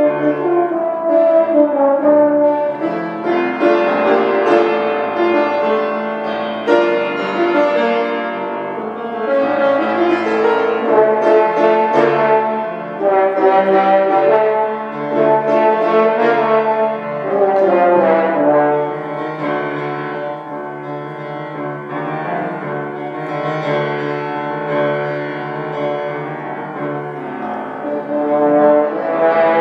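Instrumental music led by brass: a melody in held notes over an accompaniment.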